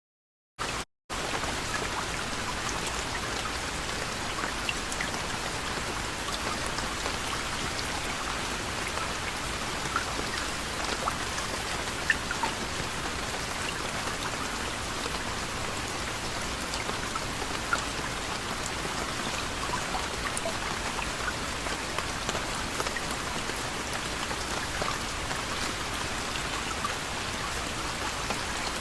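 Steady gentle rain falling, with many separate drops ticking sharply through the even hiss. The sound breaks off briefly at the start and comes back in about a second in.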